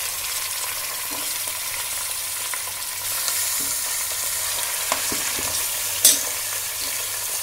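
Raw chicken pieces sizzling in hot oil with fried onions in a steel pressure cooker, stirred with a metal slotted spatula. The stove is off, and the sizzle comes from the oil's leftover heat. A few light clicks and, about six seconds in, one sharp loud clink of the spatula against the pot.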